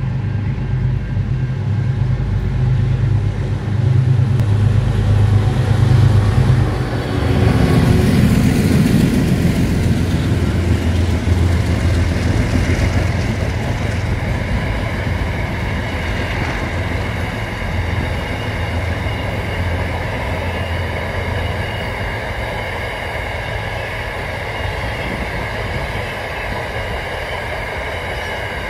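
Container freight train passing close by. A heavy low diesel-locomotive hum fills the first several seconds and peaks around seven to ten seconds in. It then gives way to the steady rumble of container wagons rolling over the rails, which slowly fades.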